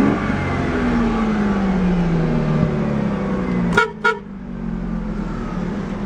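2002 Ford Mustang's 3.8-litre V6 running, its engine note sinking slowly as the revs settle back toward idle. Almost four seconds in come two short car-horn toots in quick succession.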